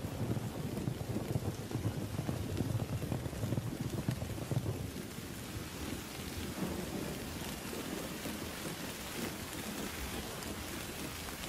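Thunderstorm: steady heavy rain with a low rumble of thunder that eases off about halfway through, leaving the rain alone.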